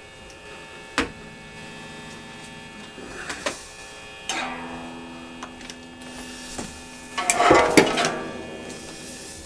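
A few sparse plucked string notes, each struck sharply and left to fade, the loudest a cluster about three quarters of the way through, over a steady hum.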